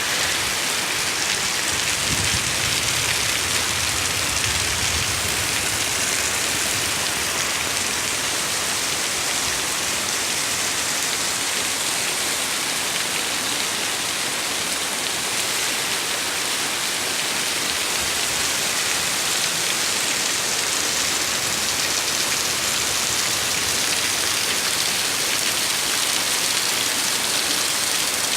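Heavy downpour, a steady dense hiss of rain pouring down and hitting surfaces, with a faint low rumble early on.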